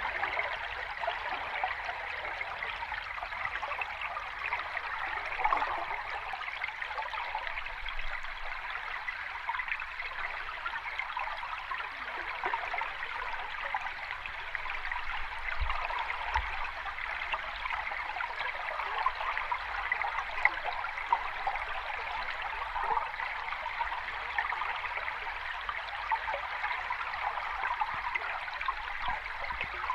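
Sea water washing gently and continuously, a steady fizzing wash with fine crackles and no separate breaking waves standing out.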